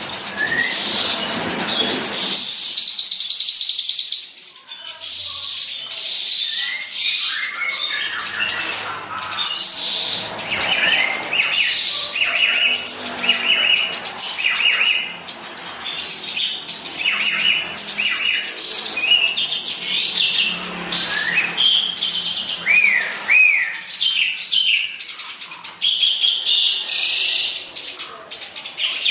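Eurasian tree sparrows chirping rapidly and continuously, many short repeated chirps with little pause. A rush of noise fills the first two seconds.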